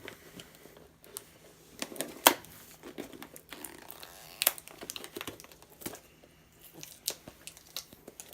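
Packaging tape and wrapping being torn and crumpled by hand: irregular crackles and rustles with a few sharper snaps, the loudest about two seconds in and again about four and a half seconds in.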